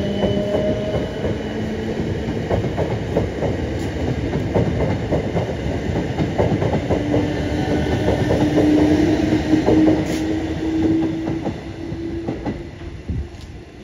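South Western Railway Class 455 electric multiple unit running past on the track, its wheels clicking over the rail joints with a whine that rises in pitch about halfway through. The sound fades near the end as the train draws away.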